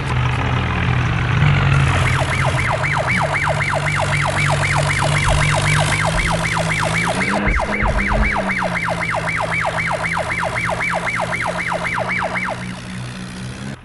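An engine runs steadily, dipping and rising in pitch briefly about halfway through. Over it, a fast warbling electronic siren-like horn sounds, sweeping up and down about four times a second. It starts about two seconds in and stops shortly before the end.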